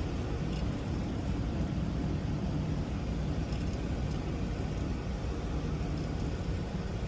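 Semi truck's engine and road noise heard inside the cab while driving: a steady low drone with no change.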